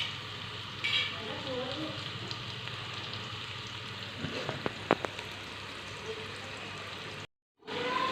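Onions and ginger-garlic-tomato masala paste sizzling as they fry in oil in a pan, with a few sharp clinks of the spoon against the pan about halfway through. The sound cuts out for a moment near the end.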